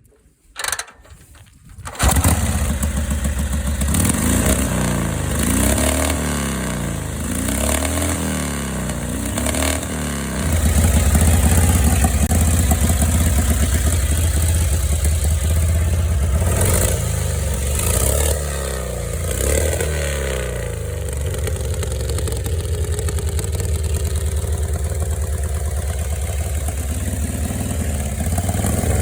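1936 Harley-Davidson VLD flathead V-twin racer starting: a short first burst, then it catches about two seconds in and runs loud. It is revved and let fall back about three times, then keeps running steadily.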